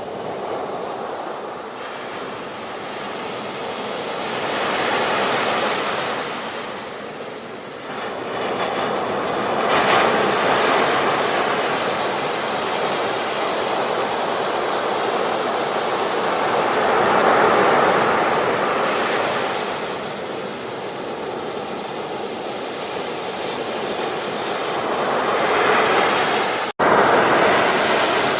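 Ocean surf washing onto a beach, a steady rush that swells and falls back as successive waves break, every several seconds. Near the end the sound cuts out for an instant and comes back louder.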